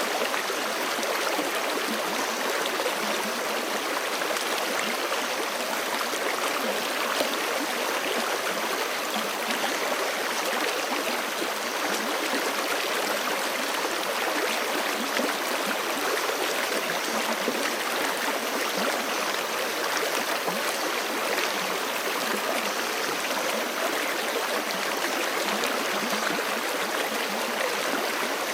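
Forest creek flowing steadily over rocks, an even rush of water with small gurgles and splashes.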